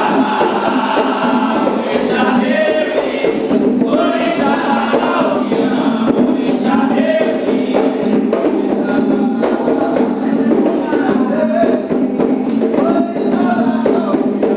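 A group singing a Candomblé ritual chant together over steady hand percussion, with sharp, frequent percussive strokes under the voices.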